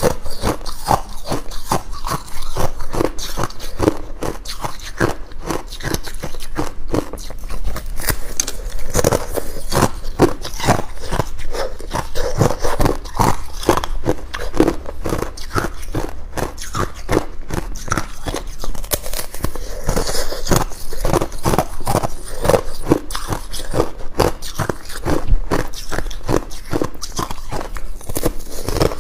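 Ice being bitten and chewed close up: a dense, irregular run of sharp crunches and crackles, several a second.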